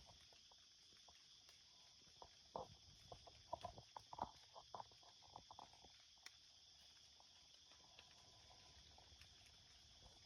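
Faint, irregular crunching and rustling in dry leaves, like slow footsteps, clustered between about two and six seconds in, over a steady faint high hiss.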